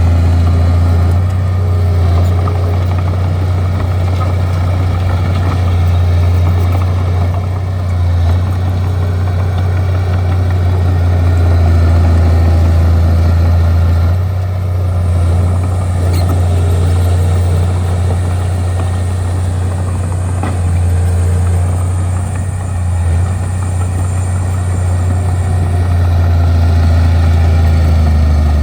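Bulldozer's diesel engine running steadily with a strong low drone. A faint high whine joins about halfway through and stops a few seconds before the end.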